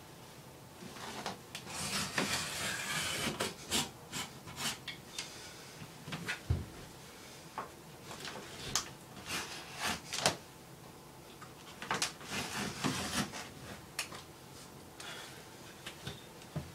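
Old linoleum flooring being cut and pried up: irregular rubbing and scraping, broken by scattered sharp knocks and clicks.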